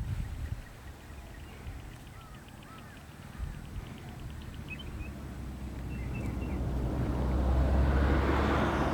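Faint, short bird chirps and a fast run of ticking notes, then a low rumble that swells over the last few seconds, like a motor vehicle approaching.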